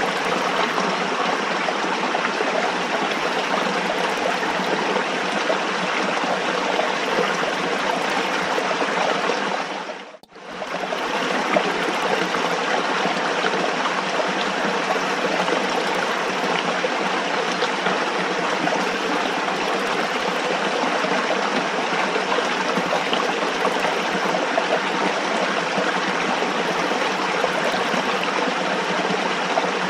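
Running water, a steady rushing and trickling flow. About ten seconds in it fades almost to nothing for a moment and then returns.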